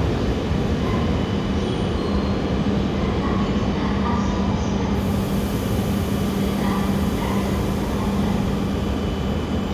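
Joetsu Shinkansen E7 series trainset at the platform, a steady rail rumble with a constant low hum running through it.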